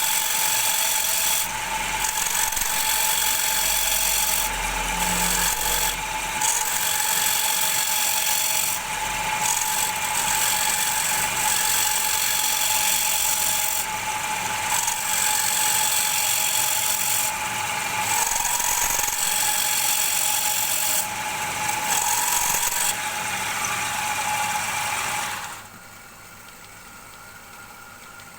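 Wood lathe running with a tool working against the spinning wooden bowl, a loud hiss over a steady motor whine, the hiss swelling and easing as the tool is pressed and eased off. Near the end the tool comes off the wood and only a quieter hum remains.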